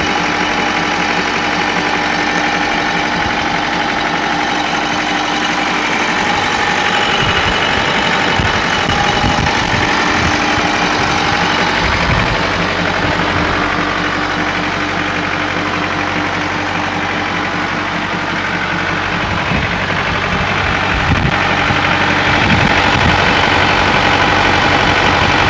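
Kubota M7040SUD tractor's four-cylinder turbo diesel engine idling steadily.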